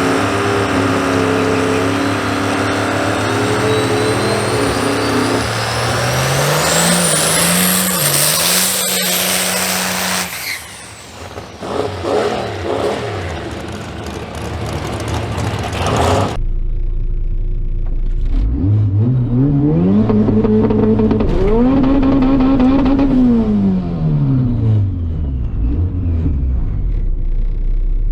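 Drag-racing cars accelerating hard: loud engine noise with a high whine rising in pitch over the first part. After a sudden change about sixteen seconds in, another engine revs up, climbing in pitch, then falls away.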